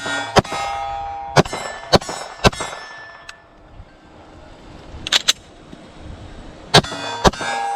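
A series of sharp shots, about seven spread irregularly, each followed by the ringing of struck steel targets.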